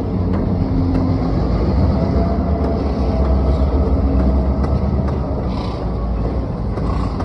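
Reading Blue Mountain & Northern freight train rolling past: a loud, steady low rumble of the cars' wheels on the rails, with a few faint clicks.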